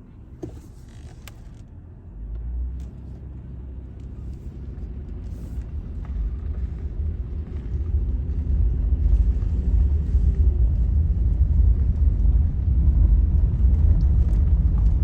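A car driving, a steady low rumble of engine and road noise that grows louder over the first eight seconds or so and then holds.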